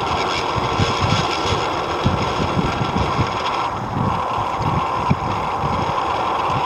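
Wind buffeting the microphone outdoors, with irregular low rumbling gusts over a steady hiss.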